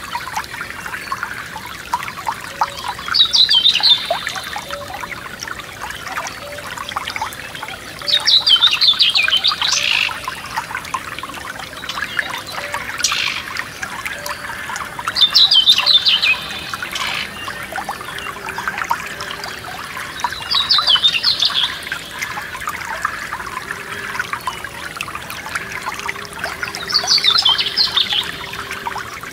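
Forest stream trickling steadily, with a songbird repeating a short, high trilled phrase about every six seconds, five times; the bird phrases are the loudest sound.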